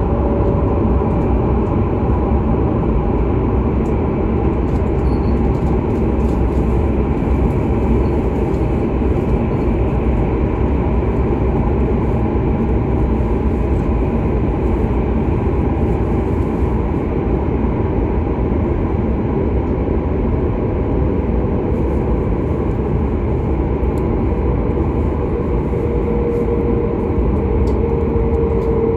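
Steady running noise of a Hokuriku Shinkansen train at speed, heard from inside the passenger cabin: a continuous deep rumble, with a faint steady tone coming in near the end.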